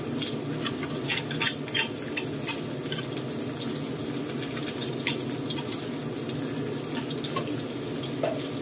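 Eggplant with garlic and spring onion frying in oil in a wok, a steady sizzle with sharp crackles in the first couple of seconds and again about five seconds in.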